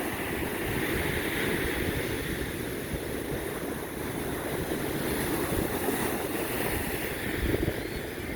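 Ocean surf washing up the beach, with wind rumbling on the microphone.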